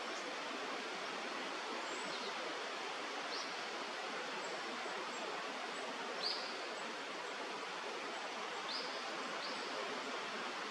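Steady rush of flowing river water, with a few short high bird chirps scattered through it, the clearest about six seconds in.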